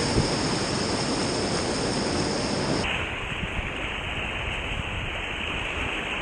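Rushing whitewater river noise, a steady hiss and rumble. About three seconds in it abruptly turns duller and a little quieter.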